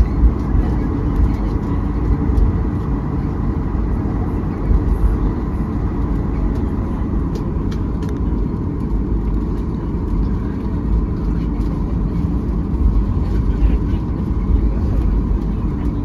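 Steady low rumble of airliner cabin noise, the engines and airflow of a jet in flight, with a faint steady hum, a few small clicks and a little murmur of voices.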